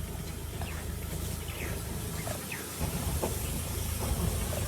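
Steady, noisy outdoor background with a low hum underneath and a few faint, short falling chirps scattered through it.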